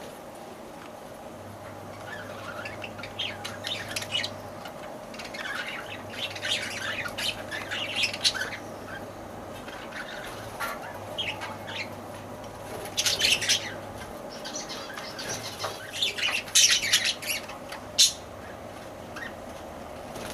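Lovebirds chirping and squawking in repeated bursts of high, shrill calls, loudest in the second half, over a low steady hum.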